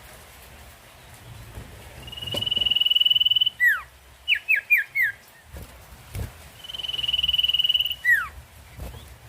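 Sirtu songbird singing its 'ngetir' song: a long, level, high whistle with a fine flutter, then a falling note and four quick falling notes, then the long whistle and falling note again.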